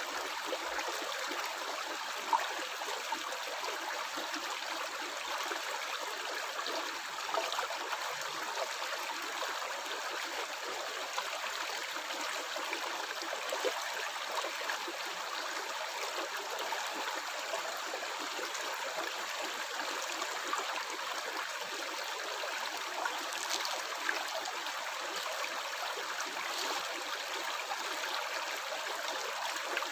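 Water in a small stream flowing and gurgling steadily, with a few small splashes and drips standing out now and then.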